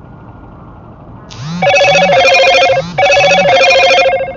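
Telephone ringtone going off loudly: two rings about a second apart, each made of a double ring-ring.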